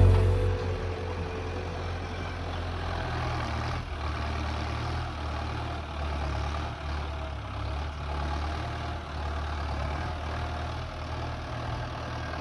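A tractor's diesel engine running steadily at a low, even speed.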